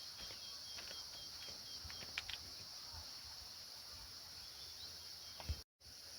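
Steady high-pitched insect chorus, with a faint run of short, evenly repeated chirps in the first two seconds and a few light clicks, one sharper shortly before the end.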